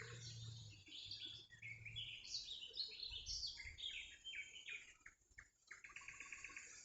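A small songbird singing: a quick run of short, falling chirping notes, then a fast rattling trill near the end.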